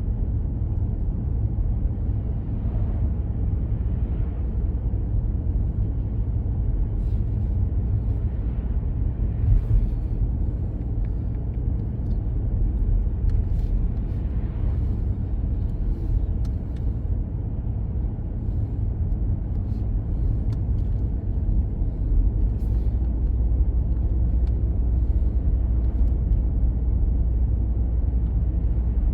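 Steady low rumble of a vehicle driving along the road, heard from inside the cabin, with a few faint clicks here and there.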